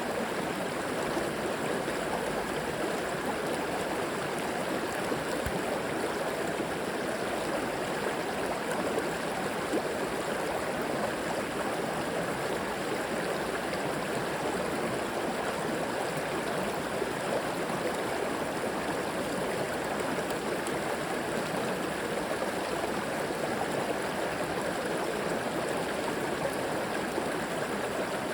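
Flowing river water running and gurgling over stones, a steady unbroken rush.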